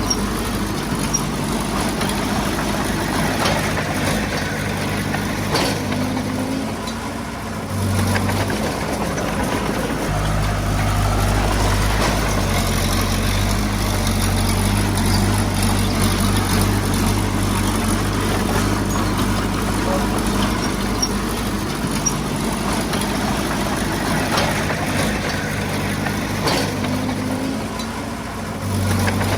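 Heavy-equipment diesel engine running steadily, its low note easing off about eight seconds in and picking up under more load about ten seconds in.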